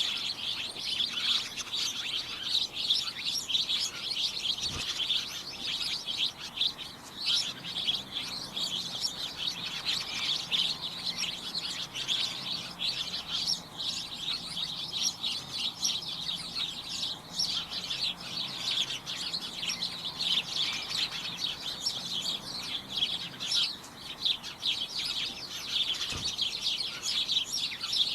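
A flock of small birds chirping and tweeting without a break, many short calls overlapping into a busy, high-pitched chatter.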